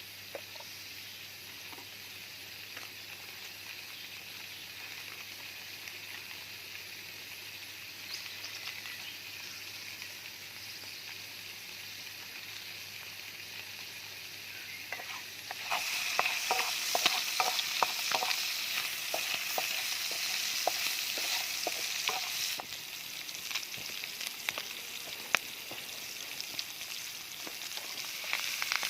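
Food sizzling as it fries in a pan, with a utensil clicking and scraping as it is stirred. The frying gets louder about halfway through and eases off again a few seconds later.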